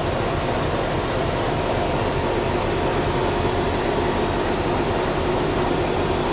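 Railway train running: a steady noise at an even level, with a few faint held tones through it.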